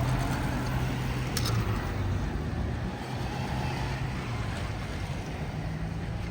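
Road traffic passing: a motor vehicle's low engine hum fades away over the first couple of seconds, with a short sharp click about a second and a half in.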